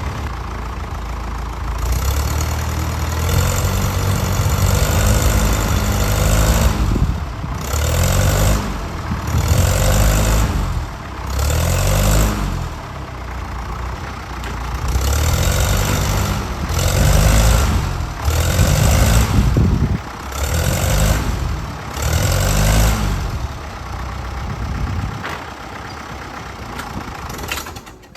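Tractor engine during a tow start with a broken starter, running and revving up and back down about ten times in quick succession, then settling to a steadier run before the sound cuts off.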